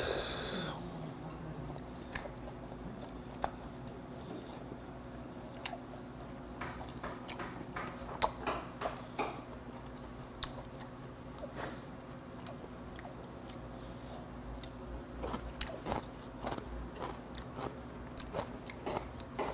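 A man chewing seasoned raw horse-meat yukhoe close to a lapel microphone, with soft wet smacking and short clicks scattered throughout.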